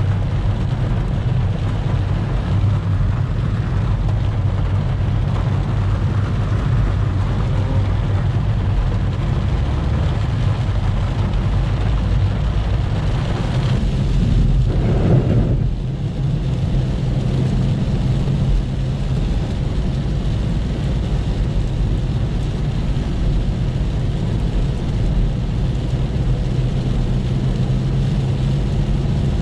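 Steady low drone of a car's engine and tyres heard from inside the moving car, with a brief louder whoosh about halfway through.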